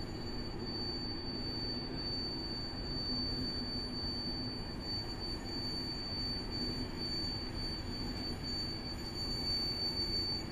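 PKP Intercity passenger coaches of a slowly arriving train rolling past: a steady rumble of wheels on the rails, with a thin, steady high-pitched tone over it.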